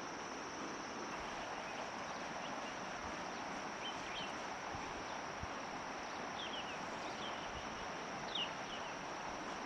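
Outdoor nature ambience: a steady rushing hiss, a continuous high-pitched insect drone, and a few short bird chirps in the second half.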